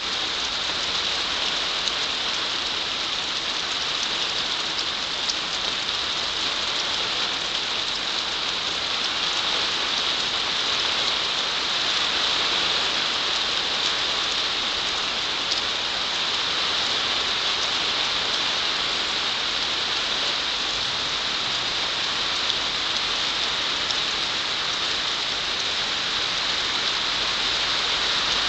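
Steady rain falling on a pond: an even, unbroken hiss of drops that stays at the same strength throughout.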